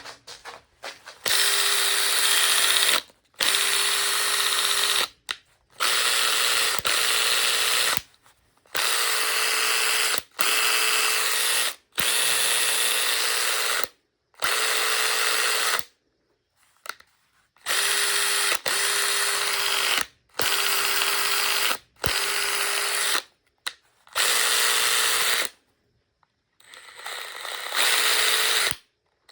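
Makita TD147D cordless impact driver run in short trigger pulls of one to two seconds, over a dozen times, spinning with a steady whine and rattle; the last pull builds up gradually. Its hammer unit has shaft wobble and an abnormal noise, as stated in the listing.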